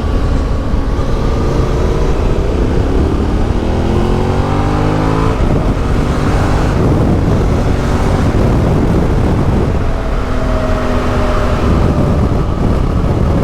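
Yamaha Ténéré 700's CP2 parallel-twin engine through an Akrapovic exhaust, heard from a microphone inside the rider's helmet. The revs climb for a few seconds under acceleration, drop sharply at a gear change about five seconds in, then the engine pulls on, rising again and easing off near the end.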